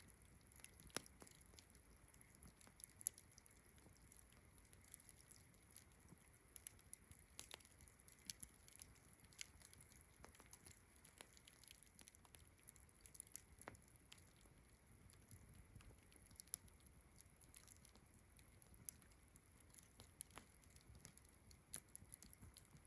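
Campfire crackling softly with irregular small pops and snaps, one sharper pop about three seconds in, over a steady high-pitched chirring of distant crickets.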